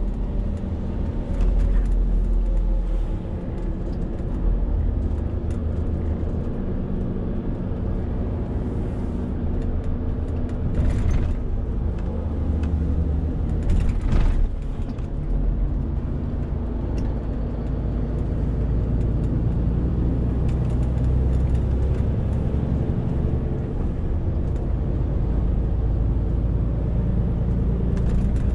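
Renault T520 truck's diesel engine running steadily under a 40-tonne load, its note shifting up and down as it drives. Two brief noisy sounds break in around the middle.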